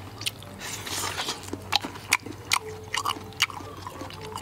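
Close-up eating sounds: mouth smacking and chewing on steamed turtle, a run of short sharp wet clicks every fraction of a second.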